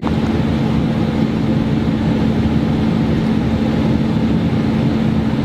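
A loud, steady mechanical drone with a constant hum over a low rumble, starting suddenly and never letting up.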